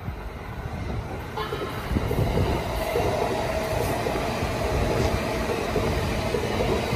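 Keikyu electric train running on the line, growing louder over the first two seconds, then a steady run of wheels on rails.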